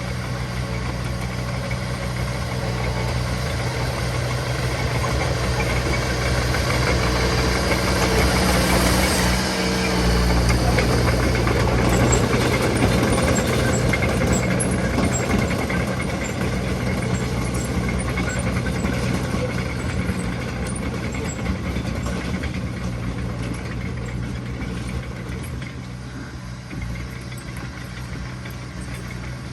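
Heavy diesel construction machinery running steadily. The engine grows louder toward the middle and then fades somewhat.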